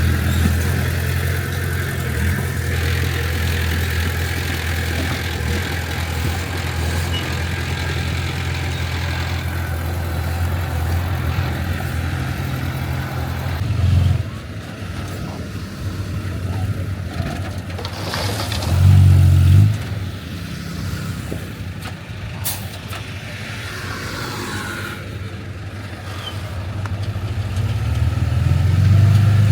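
Heavy diesel engine of earthmoving equipment running steadily, then dropping back about halfway through, surging briefly, and picking up again near the end.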